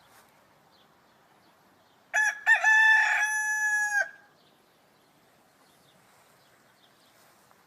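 Rooster crowing once, a cock-a-doodle-doo about two seconds long: a few short notes, then one long held note.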